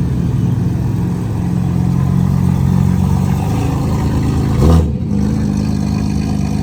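Loud car engine running steadily, with a short rev that rises in pitch about two-thirds of the way in.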